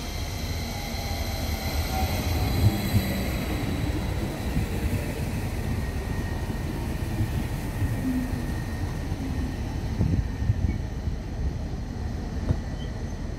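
A eurobahn Stadler FLIRT electric multiple unit pulling into the platform. A high whine fades over the first few seconds, then the wheels rumble steadily, with a few sharp clicks near the end as the train rolls past.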